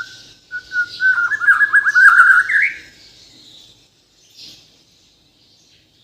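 Bornean white-rumped shama singing a loud phrase of quick whistled notes that ends in a rising note after about two and a half seconds, then going mostly quiet.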